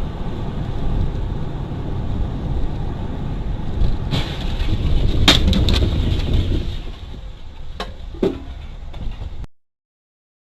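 Low, steady rumble of a moving vehicle and road, with a few sharp knocks around the middle and near the end. It cuts off suddenly about nine and a half seconds in.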